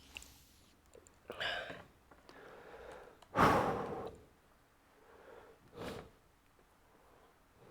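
A man breathing near the microphone: three separate breaths, the loudest about three and a half seconds in, and the others about a second and a half and six seconds in.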